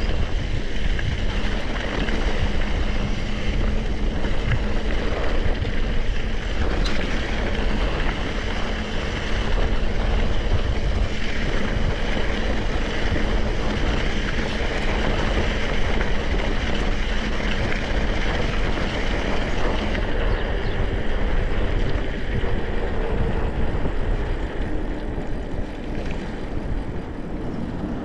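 Steady wind rush on the microphone with the rattle of a mountain bike riding over rough trail.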